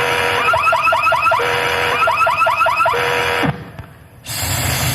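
Car alarm going off, alternating a steady tone with runs of quick rising chirps, then cutting off about three and a half seconds in; a short burst of hiss follows near the end.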